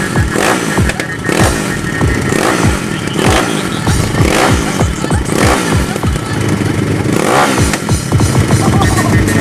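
Pit bike engine revving up and down again and again, the pitch swooping every half second or so, with music playing over it.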